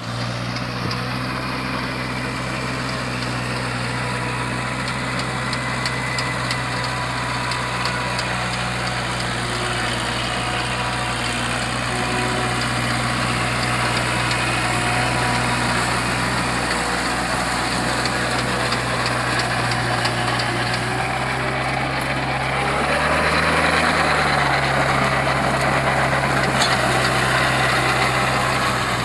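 Kubota MU4501 tractor's four-cylinder diesel engine idling steadily. About three-quarters of the way through it revs up briefly and settles back, running a little louder afterwards.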